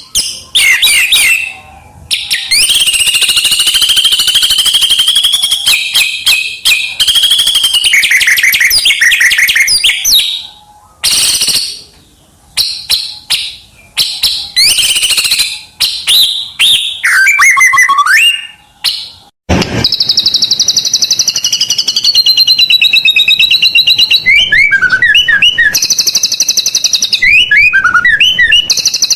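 White-rumped shama singing loudly and almost without pause: a varied song of long fast trills, rapid chatter and swooping whistled phrases, packed with mimicked calls of other birds. A sharp click cuts in about two-thirds of the way through.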